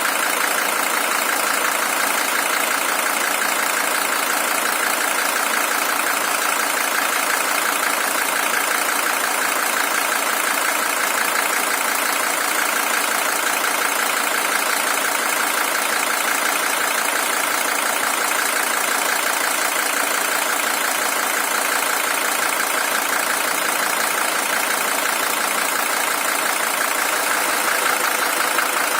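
Mercedes-Benz W123 300TD's OM617 five-cylinder diesel engine idling steadily. It is the original engine, at 620,000 km.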